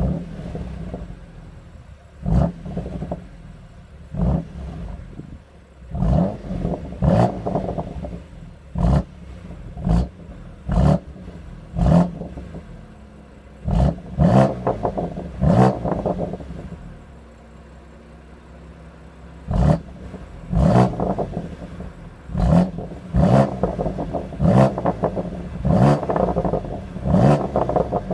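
BMW M2 Competition's twin-turbo inline-six on the stock exhaust, warm and in Sport Plus mode, idling between many quick throttle blips to no more than about 4000 rpm. The blips come in irregular runs of one to three a second, with a few seconds of steady idle about two-thirds of the way through.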